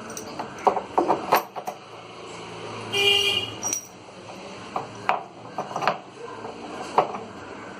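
Scattered metallic clanks and knocks of washing-machine parts being handled, with a short vehicle horn honk about three seconds in.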